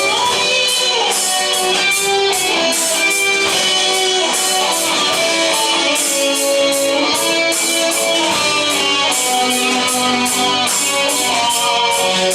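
Live rock band music from a vocal-instrumental ensemble, with no singing: electric guitar over a steady drum beat.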